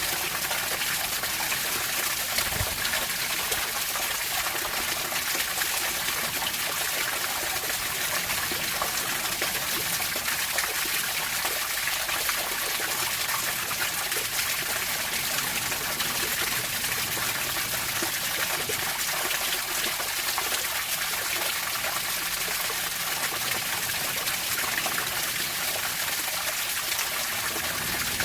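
Running water trickling and splashing steadily, an even rushing hiss with no rise and fall of waves.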